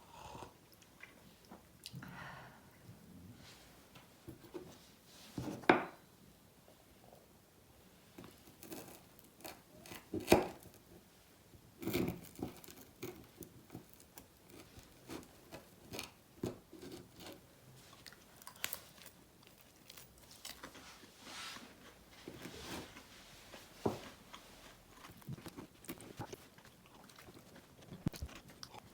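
Crisp toast crunching in irregular bursts, with a few sharper knocks about six, ten and twelve seconds in.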